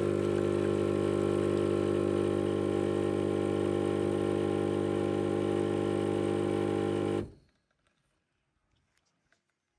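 Xiaomi semi-automatic espresso machine's pump running with a steady hum, cutting off abruptly about seven seconds in, followed by a few faint small clicks.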